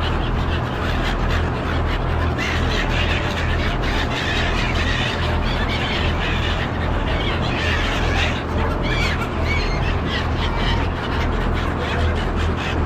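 Gulls calling repeatedly, more often in the second half, over the steady low hum of a ferry's engine.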